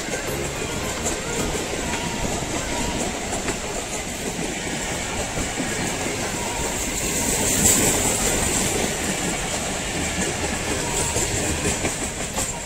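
Passenger coaches of an express train rolling past close by at speed, their wheels clicking over the rail joints. There is a brief louder, high-pitched swell about eight seconds in. The sound begins to fall away near the end as the last coach passes.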